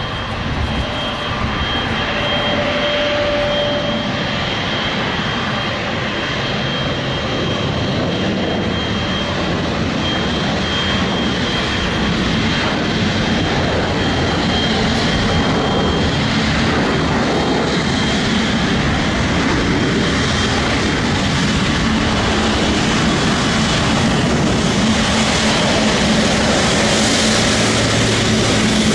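Boeing 777-300ER's twin GE90 turbofan engines running as the airliner approaches. It is a steady jet rush that grows slowly louder, with a faint whine held under it.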